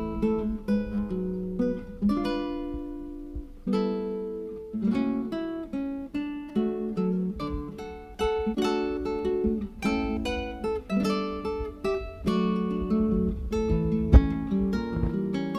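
Background music: acoustic guitar plucking and strumming in a steady rhythm.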